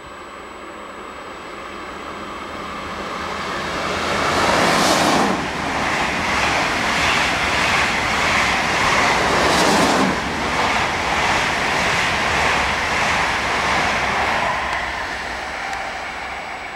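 ICE high-speed electric train approaching and passing at speed: a rising rush of wheel and air noise that peaks in a sharp whoosh about five seconds in, a second whoosh about ten seconds in, then fades as the train runs away.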